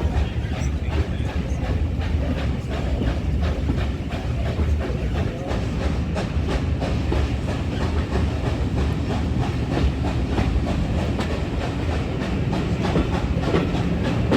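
Steam-hauled heritage train running along the line behind GWR Manor-class locomotive 7828 Odney Manor: a steady low rumble with rapid, regular clicking of wheels over the rails.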